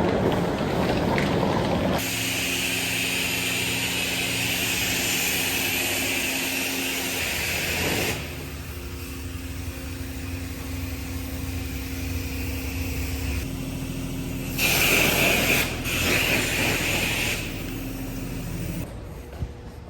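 High-pressure water spray hissing in two loud stretches, over a steady motor hum, with abrupt changes between short clips.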